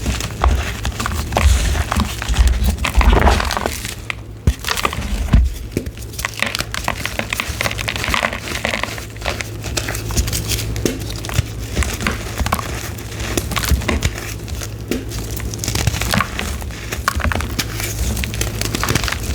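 Gym chalk being crushed and crumbled, a dense run of irregular crunches and crackles with a short lull about four seconds in.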